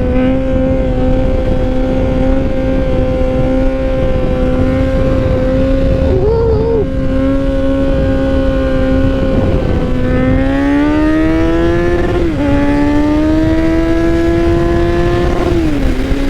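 Kawasaki Z900's inline-four engine running through an aftermarket exhaust with its baffle missing, loud and open. The engine holds steady revs for about ten seconds, then climbs, drops sharply in pitch about twelve seconds in, and climbs again before falling off near the end.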